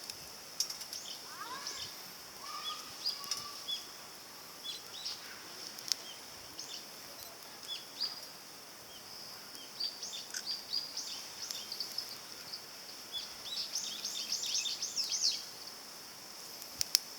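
Birds chirping outdoors in short, quick calls, with a dense run of chirps near the end, over a steady high hiss. A few sharp snaps stand out.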